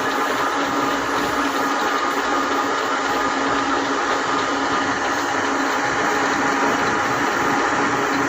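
CQ6236A metal lathe running with a steady, unchanging whirring hum.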